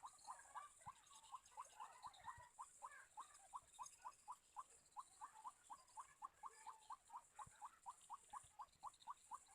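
Faint, steady run of short rising chirps from a bird, about five a second.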